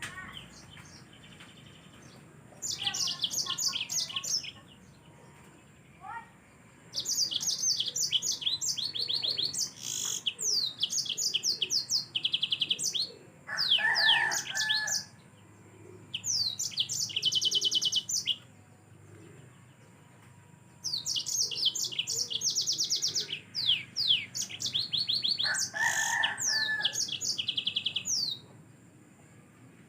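Yellow-fronted canary (Mozambique canary) singing: bright, fast high trills and rapidly repeated notes in phrases of one to three seconds, separated by short pauses.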